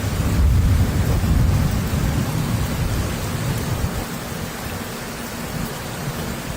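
Thunder rumbling over steady rain, the rumble loudest in the first three seconds and then dying away under the hiss of the rain.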